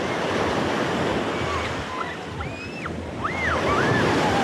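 Sea waves washing onto a beach, with wind buffeting the microphone; the surf swells louder near the end. A few short calls rising and falling in pitch sound in the middle.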